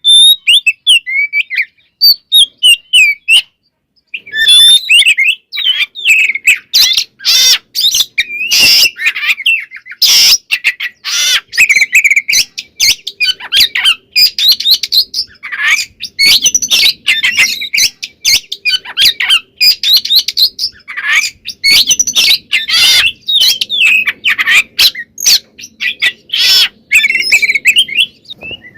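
Oriental magpie-robin (kacer) singing loudly: a fast, varied stream of whistles and chirps mixed with harsh scratchy notes, its song full of mimicked phrases. The singing is sparse for the first few seconds, then runs on almost without a break.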